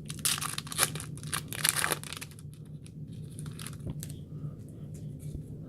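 A trading card pack's wrapper being torn open and crinkled: a burst of tearing and crinkling in the first two seconds, then lighter, scattered crinkles until a little past the middle.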